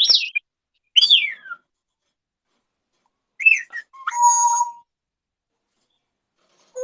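Pet parrot whistling: a quick rising whistle, a falling whistle about a second later, then after a pause a couple of short whistles and a longer held, buzzy tone around four seconds in.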